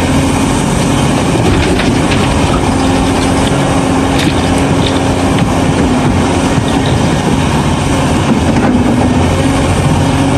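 Large tracked excavator at work: its diesel engine runs steadily under load with a constant hum, while the digging and loading goes on.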